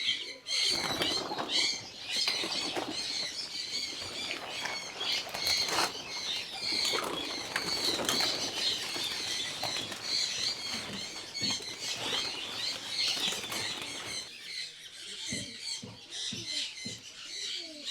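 A flock of racing giribaz pigeons flying in scattered fashion, their wings flapping and rushing, with birds chirping steadily throughout. The wing noise falls away about three-quarters of the way through, leaving the chirping and a few soft thumps.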